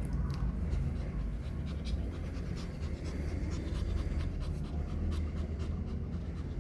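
Pomeranian puppy panting, with many short clicking sounds throughout over a steady low rumble.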